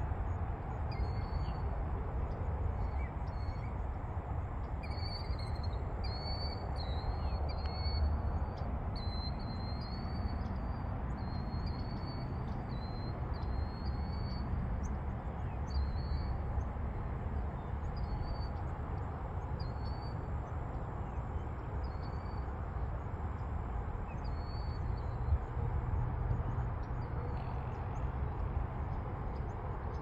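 A bird repeating short, high chirps over and over, most often in the first half, over a steady low rumble.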